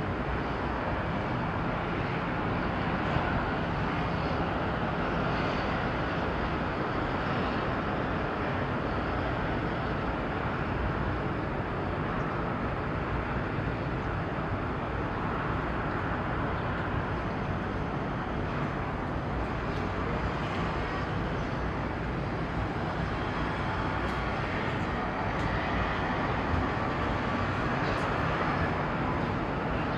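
Steady outdoor harbour background noise: an even low rumble and hiss with no distinct events.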